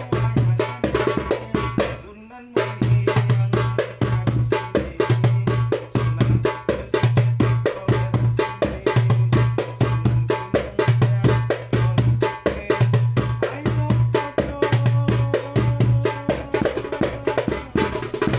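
A 9-inch darbuka with a Remo mylar head played in a fast rhythm: deep bass strokes about once a second under a dense run of quick, sharp rim strokes, with a brief break about two seconds in.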